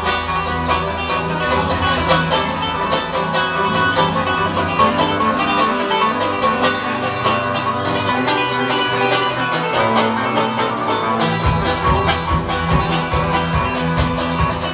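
A band plays an instrumental break between sung verses: quick, evenly picked notes over held chords, with heavy low bass notes coming in about eleven and a half seconds in.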